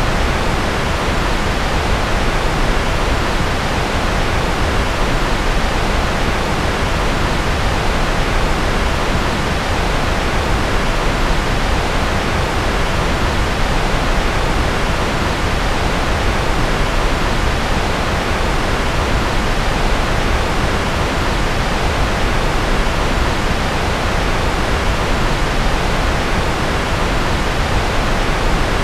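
Electronically generated white noise: a steady, unchanging rushing hiss, fuller in the low end.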